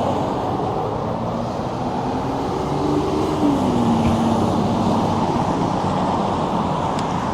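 Steady street traffic and riding noise with wind on the microphone, heard from a moving bicycle; a low hum drops in pitch about three and a half seconds in.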